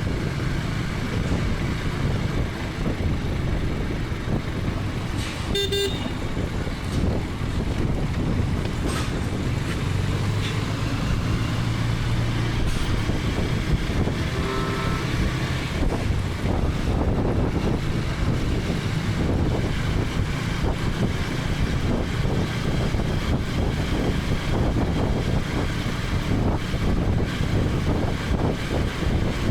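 KTM 250 Adventure's single-cylinder engine running under way with road and wind noise from the motorcycle, in traffic. A vehicle horn toots briefly twice, about six seconds in and again about fifteen seconds in.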